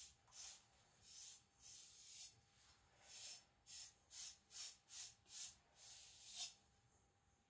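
Gyuto knife edge being stropped on paper to finish and dry it after sharpening: faint, rhythmic swishing strokes about two a second, which stop about six and a half seconds in.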